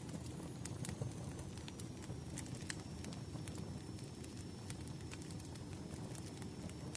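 Crackling wood fire: irregular sharp pops and snaps over a steady low rumble of flames.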